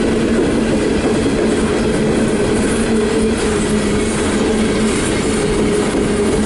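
Empty coal hopper cars of a long freight train rolling past, a steady clatter of wheels on rail with a steady low tone running through it.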